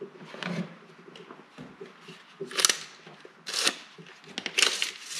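Small items being handled and set into a toolbox: light rustling with a few sharp clicks and clatters, the loudest about two and a half seconds in, at three and a half seconds, and near the end.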